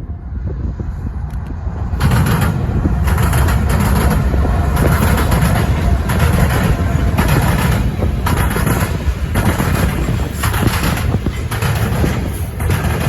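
Freight train passing close by: a heavy low rumble with irregular clatter of wheels on the rails. It swells suddenly about two seconds in.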